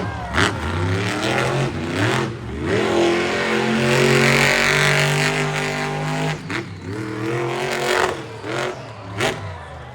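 Monster truck engines revving hard, their pitch swelling up and falling back, loudest in the middle, with several sharp cracks.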